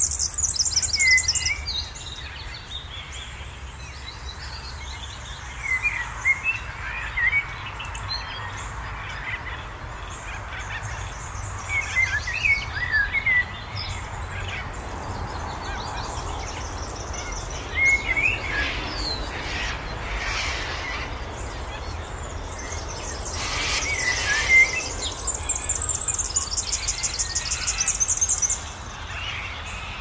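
Superb fairy-wren song: a rapid, very high reeling trill at the start and again about 25 seconds in, with short chirping phrases between, over a steady low rumble of background noise.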